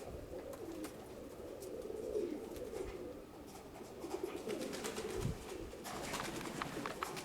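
Domestic pigeons cooing repeatedly, with scattered light clicks in the second half.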